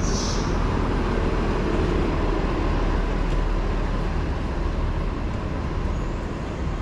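Steady street traffic noise, with vehicles running and passing on the road. There is a short high hiss right at the start.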